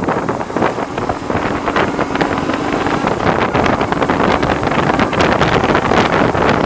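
Heavy wind buffeting on the microphone of a BMW R1100R under way, with the bike's flat-twin boxer engine running faintly beneath. The rider puts the bad wind noise down to the screen.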